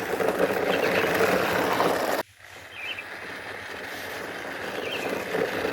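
Toy cars running in a race, a steady noisy hum that cuts out abruptly about two seconds in, then returns.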